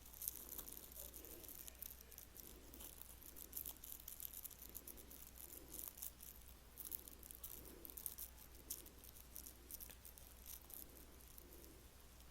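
Faint, irregular rattling and light clicking of a cat toy being batted about by a kitten, with soft thuds every second or so.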